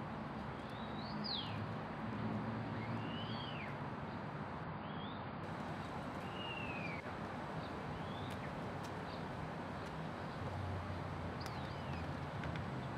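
Birds giving short, arching chirps every second or two, over a steady outdoor background hiss and low hum.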